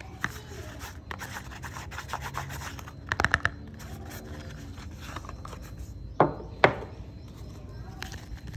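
Soap being handled and unpacked: continuous rubbing and scraping, with a quick run of clicks about three seconds in and two sharp knocks a little after six seconds.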